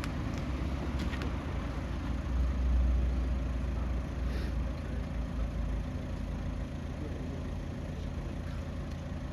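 A motor vehicle's engine idling steadily with a low hum.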